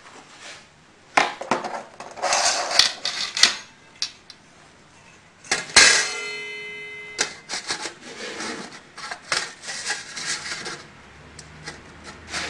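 Metal parts and tools clattering and clinking as they are handled. About six seconds in, one sharp metal clang rings on for about a second.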